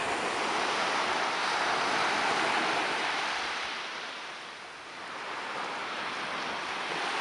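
Sea waves washing ashore: a surge of surf that swells, eases off about five seconds in, and builds again with the next wave near the end.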